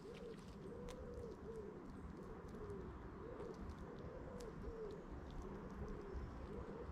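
Pigeons cooing: low coos that rise and fall, repeated over and over, over a low background rumble.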